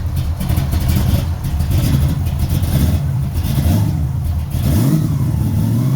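Big-block V8 in a Chevy Nova idling, then revved briefly about five seconds in, the pitch rising and falling back.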